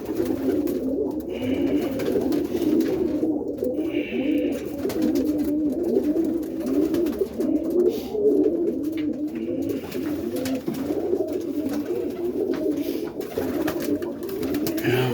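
A loft full of roller pigeons cooing, many low, wavering coos overlapping without a break.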